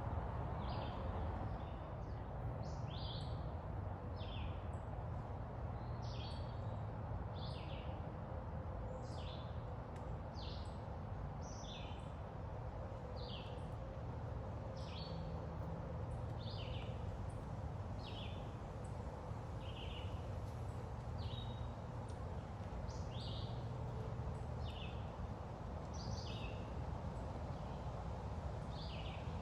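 A bird calling with short falling chirps, roughly one a second and sometimes two close together, over a steady low background rumble.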